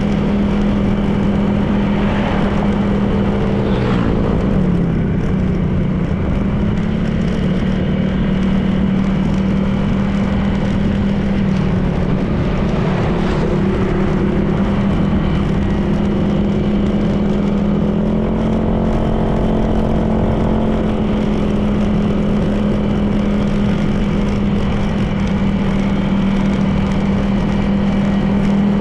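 Honda PCX 160 scooter's single-cylinder engine running steadily at cruising speed, with wind and road noise. Other engine tones briefly rise and fall around four seconds in and again a little past the middle, from passing traffic.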